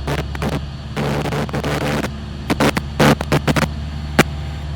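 Cessna Skyhawk's engine and propeller drone heard in the cockpit through the headset audio, with irregular bursts of radio static crackling over it.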